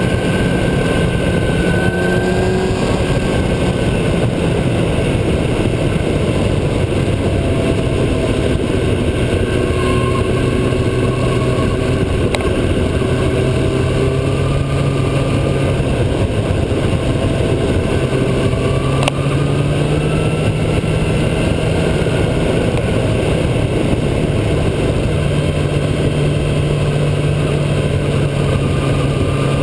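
Motorcycle engine running under way, with heavy wind rush on the microphone. The engine note rises and falls slowly as the speed changes.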